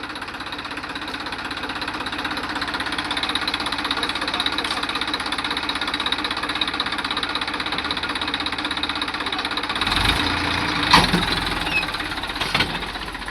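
Tractor diesel engine running steadily, getting a little louder over the first few seconds. About ten seconds in a deeper rumble comes in, with a few sharp knocks.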